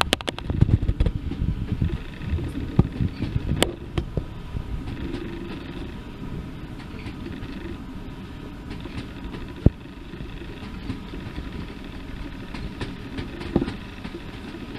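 A train running on a heritage line: a burst of sharp knocks and clatter over the first few seconds, then a steady low rumble with a faint hum and an occasional single knock.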